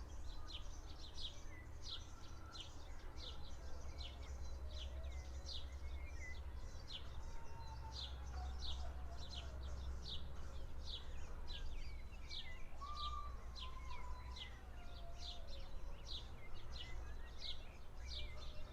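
A bird chirping over and over, short high calls at an even pace of about three every two seconds, over a steady low rumble.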